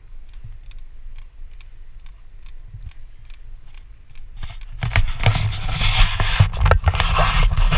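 Mountain bike riding a trail, heard from a bike-mounted camera: quiet rolling with faint regular clicks. About five seconds in, this gives way to a loud rumble and rattle of tyres and bike over rough ground, with many sharp knocks.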